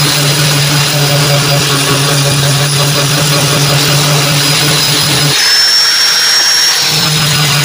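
A machine running loudly and steadily, with a low hum, a noisy rush and a thin high whine. The low hum drops out for about a second and a half a little past five seconds in, then comes back, and the high whine slides down in pitch near the end.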